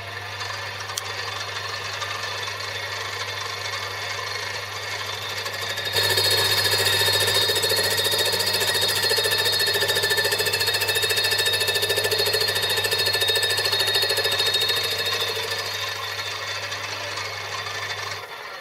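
Metalworking machine tool's electric motor running with a steady hum while a light cut is taken in metal. The cutting noise grows sharply louder about six seconds in, eases off later, and the motor shuts off just before the end.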